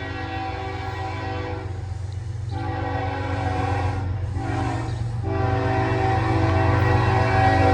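Approaching freight locomotive, the CSX 1897 Monon heritage unit, blowing its multi-chime air horn in the grade-crossing pattern: the end of one long blast, then a long, a short and a long, over the diesel engine's rumble. The whole sound grows louder as the train nears.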